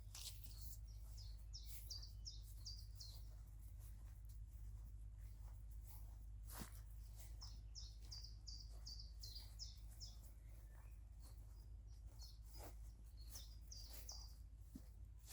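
A small songbird singing a short run of quick, high notes, repeated three times, faint over a steady low rumble.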